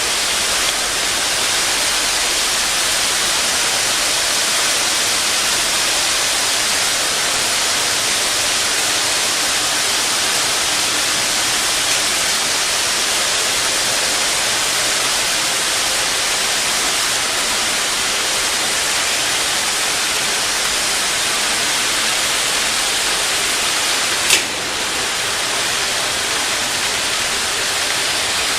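Steady rushing noise of a microwave drying and sterilization machine running, with one sharp click about 24 seconds in.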